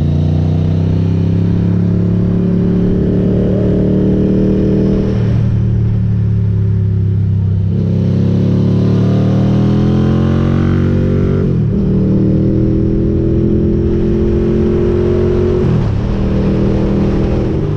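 Ducati GT1000's air-cooled L-twin engine through Termignoni exhaust pipes, pulling under throttle while riding. The engine note climbs steadily and drops sharply about four times as the gears change.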